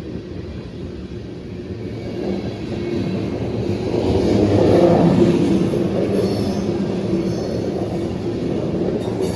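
Freight train of loaded ethanol tank cars passing close by: a continuous rolling rumble of wheels on rail with a low steady hum. It swells to its loudest about four to five seconds in.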